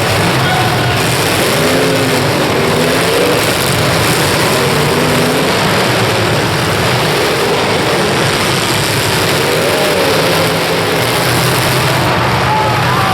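Several demolition derby car engines running and revving at once, a loud, dense mix with pitches rising and falling.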